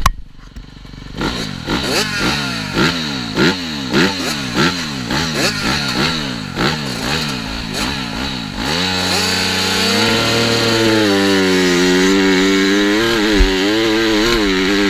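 TM Racing 250 FI motocross bike engine revving in quick repeated bursts, the pitch rising and dropping back about one and a half times a second. About nine seconds in, it settles into a long, steady pull at high revs with the pitch wavering slightly.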